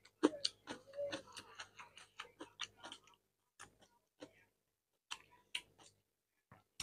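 Close-miked chewing of rice and beef curry: rapid wet mouth clicks, about four or five a second for the first three seconds, then sparser, with a short pause near the end.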